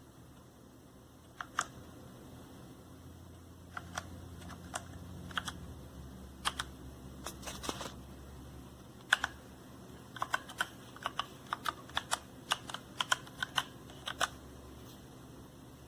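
Keys of a mechanical keyboard being pressed: scattered single keystrokes, then a quicker run of typing about ten seconds in.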